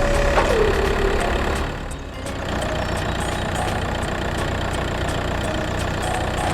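Small engine running steadily, its pitch dropping about half a second in and then holding at a lower speed.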